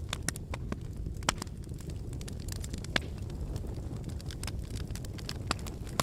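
Wood fire burning in a brick fireplace: a steady low rumble of the flames with irregular sharp crackles and pops, the loudest about a second in and again about three seconds in.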